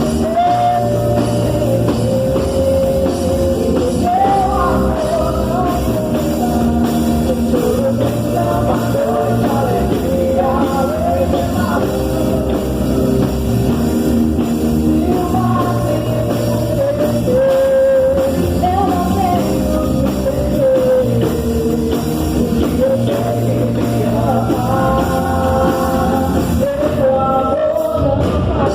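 Live worship band playing a rock-style praise song, with singing over electric guitar, bass and drum kit.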